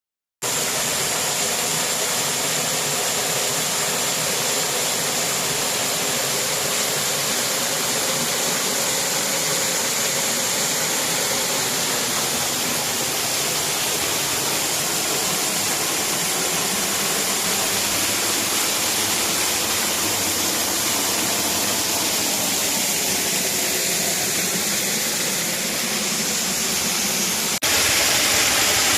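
Waterfall rushing steadily. About a second before the end it cuts abruptly to a louder, closer rush.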